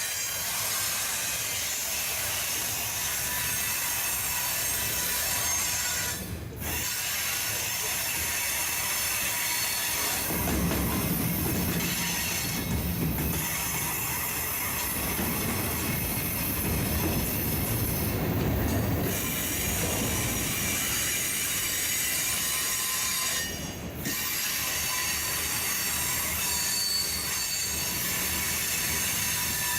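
Freight train cars rolling past with steady high-pitched wheel squeal over the rail noise. A heavier rumble comes in about ten seconds in, and the sound briefly drops out twice.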